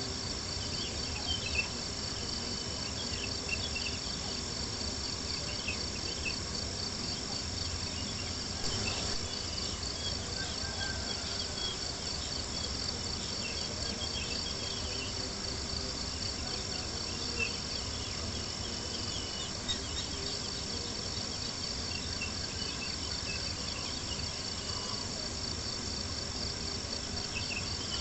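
Crickets chirping in a dense, steady chorus, with a campfire crackling in sparse small pops over a low, even rush.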